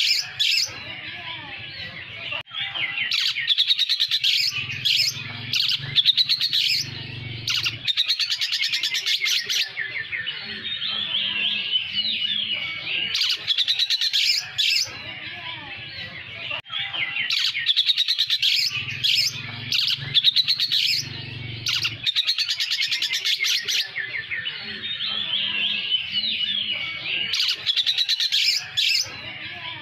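Oriental magpie-robin (kacer poci) singing a fast, continuous song. Quick twisting whistled phrases are broken every second or two by short harsh chattering bursts, its learned imitation of lovebird calls.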